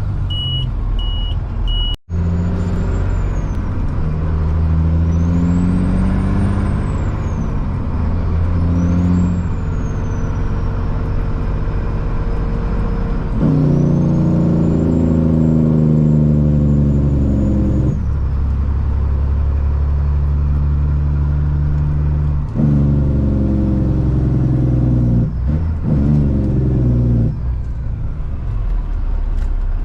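Kenworth truck's Caterpillar C-15 diesel pulling away and working up through the gears. The engine note climbs in each gear, then drops at each shift, with a shift about thirteen seconds in, another about eighteen seconds in and one near twenty-two seconds. A steady beeping stops about two seconds in.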